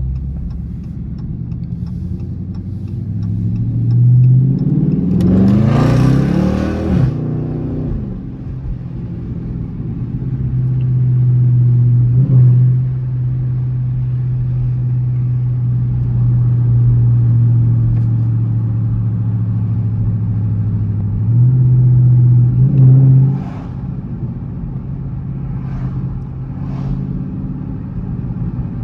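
Dodge Charger R/T's V8 engine pulling hard, its pitch rising for a few seconds about four seconds in, then dropping back. It then runs at a steady drone while cruising, surges briefly once more before the drop, and a few short sharp sounds follow near the end.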